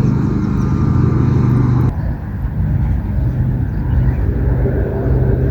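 Steady low rumble of road traffic in an outdoor field recording, changing abruptly at a cut about two seconds in.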